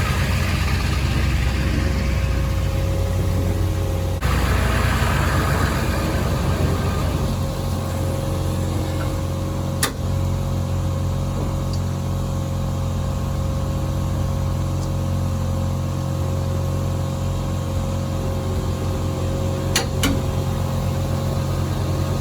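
An engine running steadily at a constant speed, with a steady whine above it. A few sharp clicks or knocks come through, one about ten seconds in and two close together near the end.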